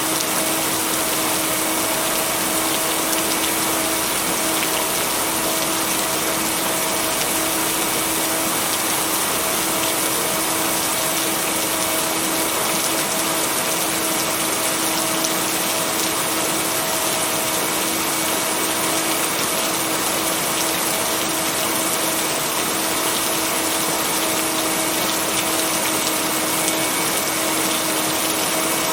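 Steady rain: an even, unbroken hiss, strongest in the high range, with a constant low hum held underneath.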